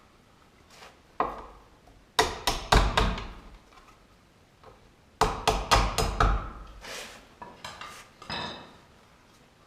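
Quick sharp knocks in two bursts of about five or six strikes each, with a single knock before and a few lighter knocks after, hard objects striking with a ringing, clattering edge.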